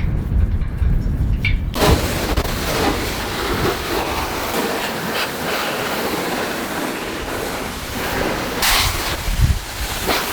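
Water from a hose spraying onto metal suspension parts, a steady hiss that starts about two seconds in. Before it there is a low rumble of wind on the microphone.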